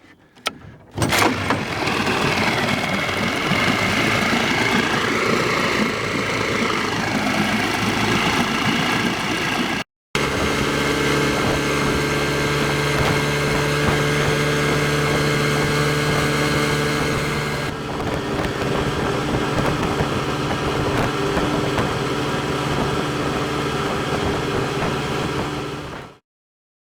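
Vikhr-25 two-stroke outboard motor running: a few clicks, then it catches about a second in, revs rising and falling for several seconds. After a brief gap it runs steadily at an even pitch until it cuts off near the end.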